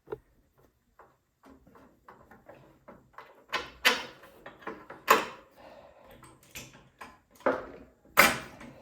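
Hand tools and small engine parts clicking, knocking and scraping as the carburetor is worked loose from a small snowblower engine, with several louder scrapes in the second half.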